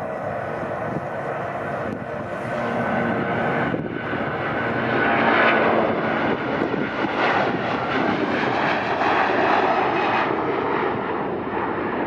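Airbus A330-300 jet airliner's Rolls-Royce Trent 700 turbofans at takeoff power: a loud, rushing jet noise with faint steady whining tones. It swells over the first few seconds and stays loud as the aircraft runs down the runway and passes.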